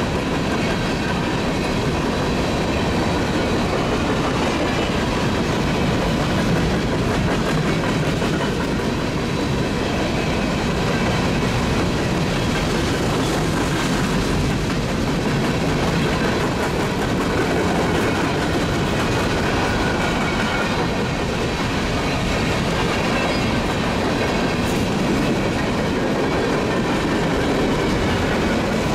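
Union Pacific freight train of coal hopper cars rolling past, a steady noise of wheels running on the rails that does not let up.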